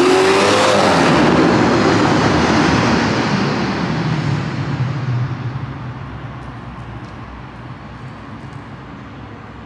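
BMW 750Li's N63 twin-turbo V8, with catless downpipes, dual X-pipes and Vibrant mufflers, pulling hard under full throttle. The exhaust note climbs in pitch for about a second, then fades steadily over the next several seconds as the car moves off into the distance.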